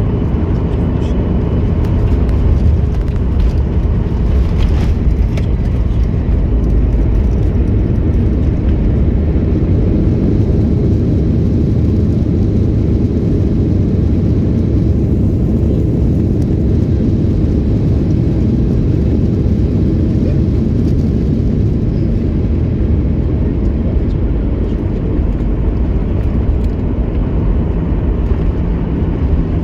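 Steady low rumble of jet engines and airframe noise heard inside an airliner cabin during arrival, with no sharp events.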